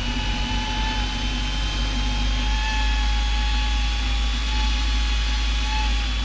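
Cessna 172's piston engine and propeller droning steadily in cruise flight, heard inside the cabin.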